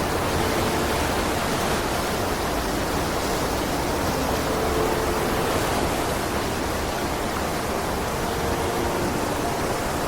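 Mountain creek water rushing steadily down a rocky cascade, running high after storms.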